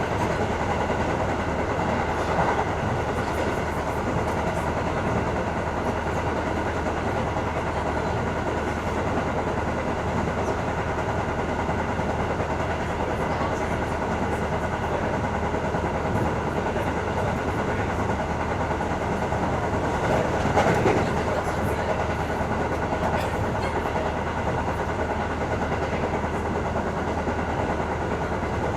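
KiHa E120 diesel railcar heard from inside the car while running: a steady drone of its six-cylinder diesel engine and transmission mixed with wheel-on-rail noise. A brief louder swell comes about 20 seconds in.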